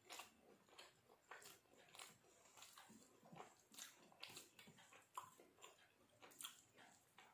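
Faint chewing: soft, irregular wet mouth clicks and smacks of someone eating a meal close to the microphone, roughly two a second.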